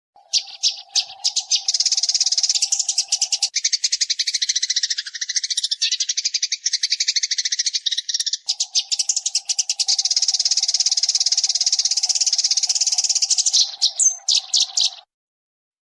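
Eurasian tree sparrow song recording: a very fast, dense stream of clear, high chirps, with a steady low hum under most of it. It starts about a third of a second in and cuts off suddenly near the end.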